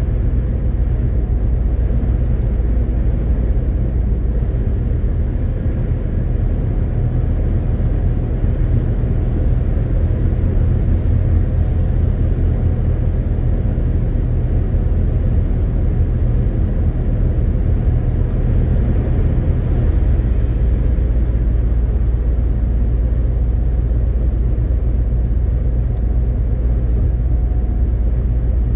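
MAN TGX 18.520 truck driving at a steady pace: a steady low drone from its straight-six diesel engine with road and tyre noise.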